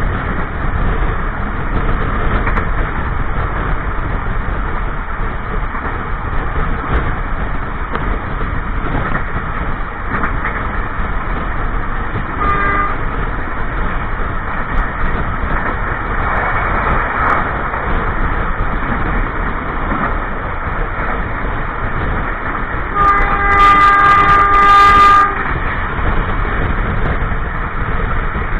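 Steady rumble and rattle of a moving passenger train's wheels on the rails, heard loud from inside a carriage toilet. The locomotive horn sounds briefly about twelve seconds in, then again in a louder blast of about two seconds near the end.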